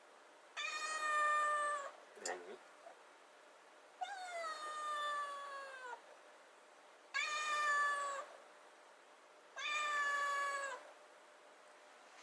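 Kitten meowing four times, each a long drawn-out meow a few seconds apart, the second sliding down in pitch: a kitten begging for wet food. A short sound dropping in pitch comes between the first and second meows.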